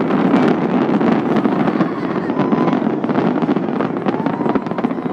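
Fireworks display: a dense run of sharp crackling pops over a continuous rumbling wash of noise.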